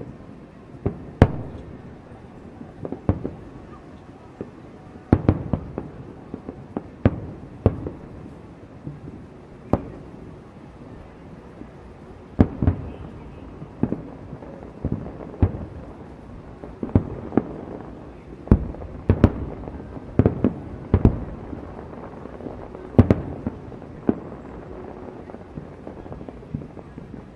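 Aerial fireworks shells bursting in an irregular barrage, sharp booms about one to two a second, some with a short rumbling tail.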